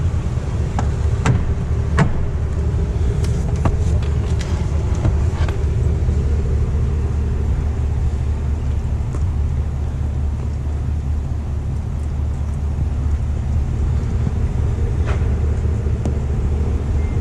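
2025 Chevrolet Tahoe High Country idling with a steady low rumble. A few light clicks and knocks sound in the first few seconds and once more near the end.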